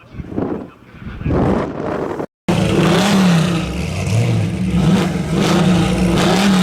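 Wind buffeting the microphone in swells, then, after a sudden cut, race vehicles' engines running loudly, their pitch rising and falling several times with light revs.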